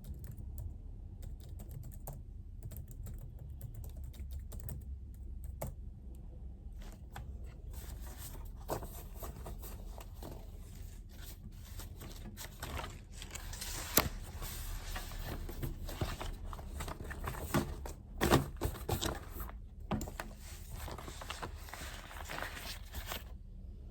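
Typing on a computer keyboard: scattered keystrokes at first, then steady, continuous typing from about seven seconds in that stops just before the end.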